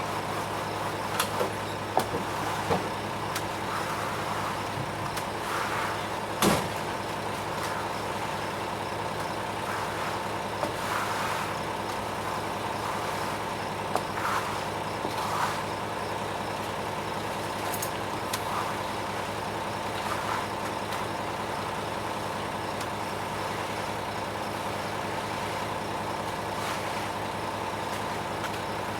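Ready-mix concrete truck's diesel engine running steadily, with scattered short knocks over it, the loudest about six and a half seconds in.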